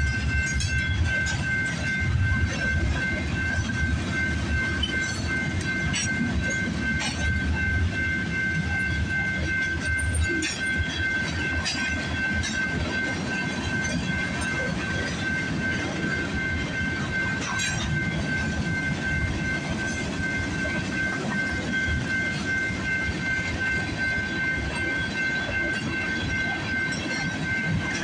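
Freight cars rolling past at speed: a steady rumble of steel wheels on rail with irregular clacks. Over it, the level crossing's warning bell keeps up a steady high ringing tone.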